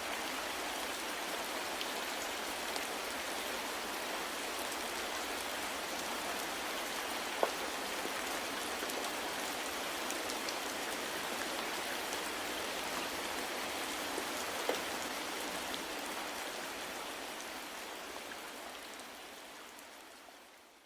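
Steady soft rain, an even hiss with a few sharper single drops standing out, fading out over the last few seconds.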